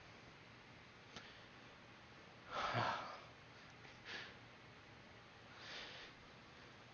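A person exhaling breathy puffs of air with no voice behind them, three in all: the first and loudest about two and a half seconds in, then a short one and a faint longer one. These are whispers ending in pure pushed-out breath.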